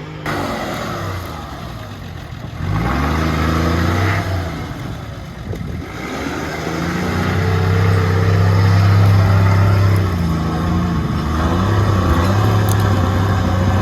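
4.2-litre turbo-diesel Nissan GQ Patrol engine revving hard under load in repeated bursts, its pitch climbing, holding high, then dropping back between bursts.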